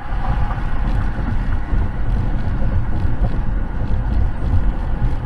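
Steady low rumble of a moving vehicle's road and engine noise, with wind buffeting the microphone.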